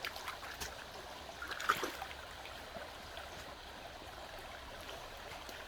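Stream water flowing and trickling steadily, with a couple of faint clicks or knocks.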